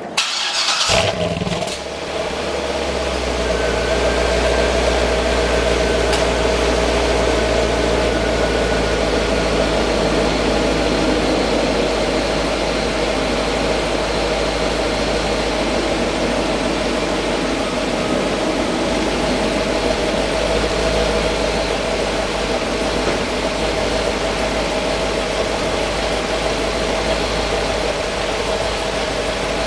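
A 2009 Corvette C6's 6.2-litre V8 (LS3) cranks and catches about a second in, then settles into a steady idle through its factory dual-mode exhaust.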